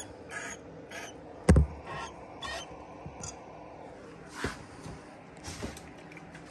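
A single hard knock about a second and a half in, among faint, short scrapes and rustles.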